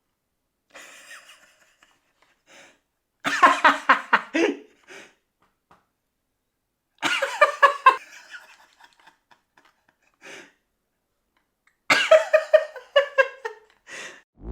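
A person laughing in three bouts of quick, pulsed laughter with breathy gasps between them; the last bout steps down in pitch, ha-ha-ha.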